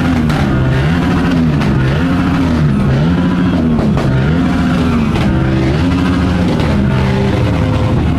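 Motorcycle engine revved up and down repeatedly, about seven times, its pitch rising and falling with each rev.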